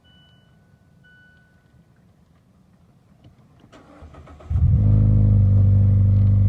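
A few short electronic chime tones, then about four seconds in a click and a brief crank as a 2018 Mazda 3's four-cylinder engine cold-starts, catching at once and running steadily.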